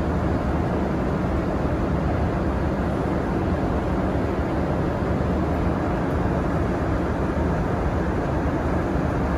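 Steady cabin noise of a Boeing 787-8 airliner in cruise: an even, deep rush of airflow and engine noise that does not change.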